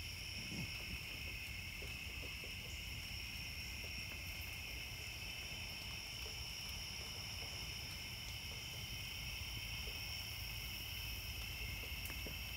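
Steady, high-pitched chorus of night insects, unbroken throughout, over a faint low rumble.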